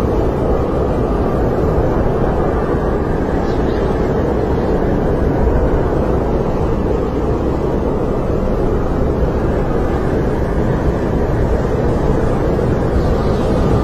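Snowstorm wind blowing steadily: an even, deep rush with faint wavering whistles.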